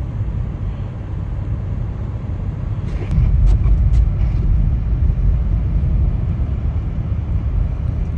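Car driving slowly on a snow-covered road, heard from inside the cabin: a steady low rumble of engine and tyres that grows louder about three seconds in, with a few faint clicks.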